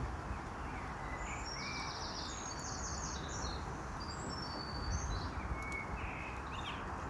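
A songbird singing a run of short, high, trilled phrases over a steady rush of outdoor background noise.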